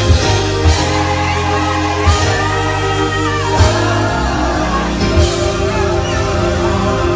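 Church music with singing over a band, held bass notes and chords under the voices.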